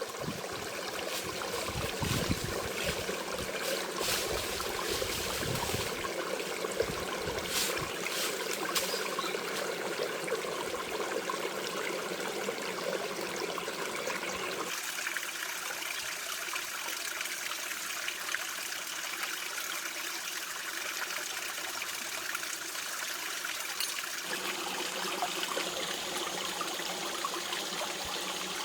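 Water running steadily in a stream, with some low thumps and clicks in the first several seconds. The sound of the water changes abruptly about halfway through and again near the end.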